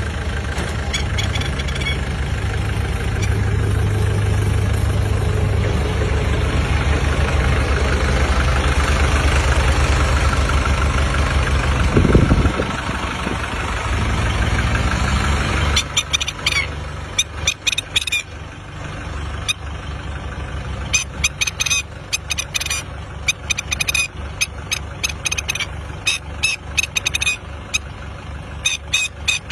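An engine running with a steady low throb. About halfway through it drops in level, and short sharp sounds start coming irregularly over it.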